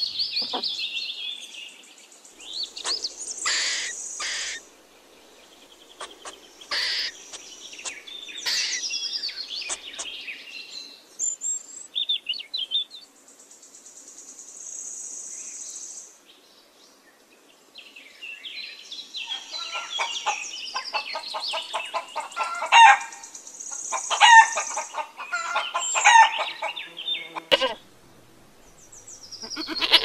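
Bird-like chirping calls in short bursts, then, after a brief lull, a longer run of rapid repeated clucking calls like a hen's.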